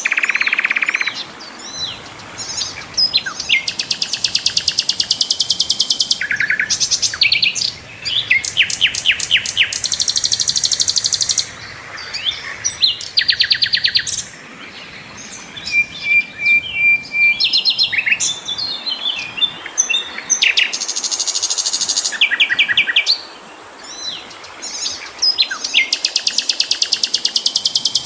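Sikatan londo flycatcher singing: loud phrases of rapid, fast-repeated high notes, one after another with short pauses between them.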